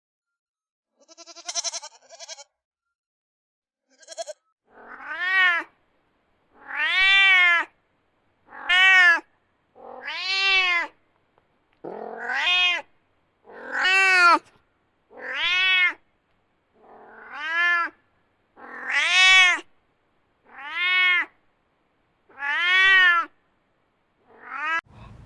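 An animal calling over and over: about a dozen pitched calls of roughly a second each, every call rising and then falling in pitch, repeated every one and a half to two seconds after a few fainter sounds at the start.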